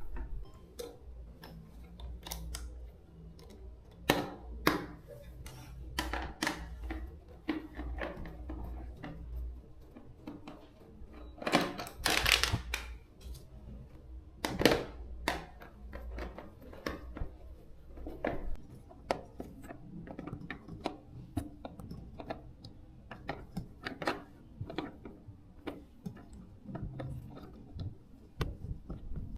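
Irregular clicks and light knocks from hands working tools and small metal parts, with a rough scraping noise lasting about a second near the middle and a low hum during the first nine seconds.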